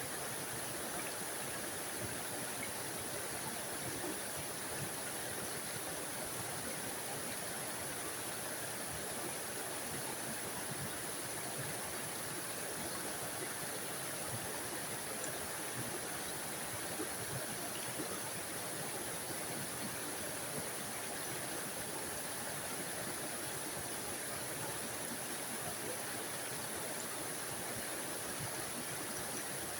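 Small forest waterfall running steadily: a constant rushing splash of falling water with no change throughout.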